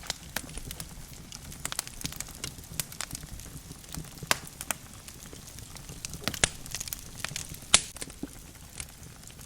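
Wood logs burning in a fireplace: irregular sharp crackles and pops over a low steady rumble of flame, with one loud pop near the end.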